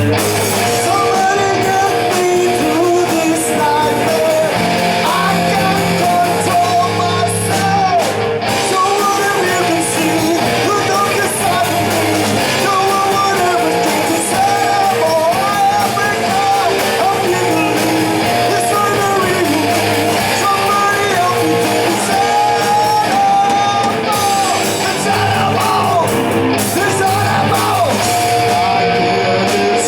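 Live rock band playing, electric guitar under a singer's voice.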